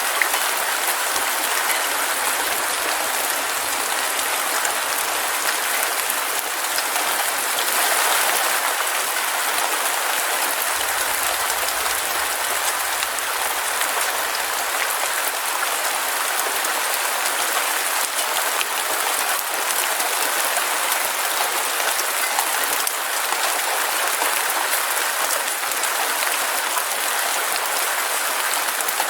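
Heavy rain falling steadily, a dense, even patter with a slight swell about eight seconds in.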